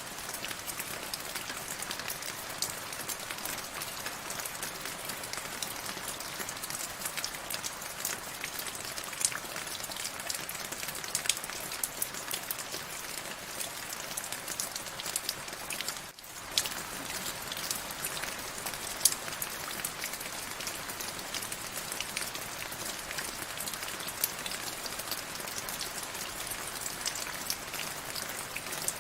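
Steady rain: a constant hiss with many separate drops striking as sharp clicks. The sound dips briefly a little past halfway, then carries on as before.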